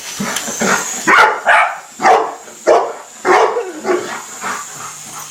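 A dog barking over and over in a rapid run of loud barks, about two a second, the loudest around the middle.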